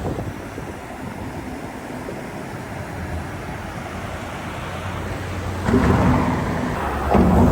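Rushing river water: a steady rumbling noise that swells louder twice near the end.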